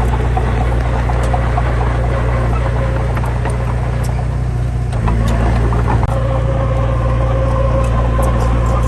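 Heavy diesel engine running steadily with a deep, even hum, with scattered small clicks and knocks and a slight shift in its sound about five seconds in.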